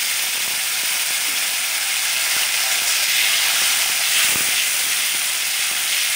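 Raw potato wedges frying in hot mustard oil with cumin seeds and green chilies in a wok, a loud steady sizzle and hiss as their moisture flashes into steam.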